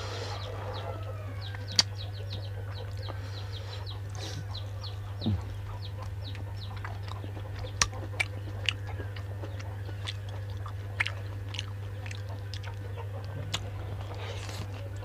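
Close chewing and crunching of food, heard as many short crisp clicks with a few louder snaps. Chickens cluck in the background over a steady low hum.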